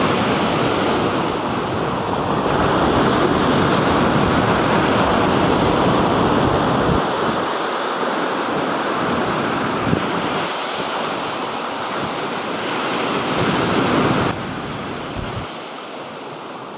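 Black Sea waves washing onto the shore in a steady surging noise, with wind rumbling on the microphone through the first half. The sound drops abruptly in level near the end.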